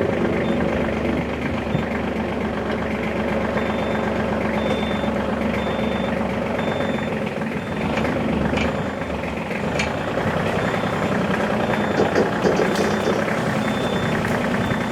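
Tractor engine running steadily while driving across the ground. A row of short, evenly spaced high beeps sounds over it from about four seconds in.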